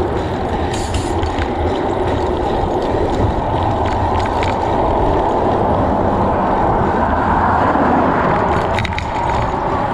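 Wind buffeting the microphone and tyres running on the road during a bicycle ride: a steady, loud rush with a few small clicks.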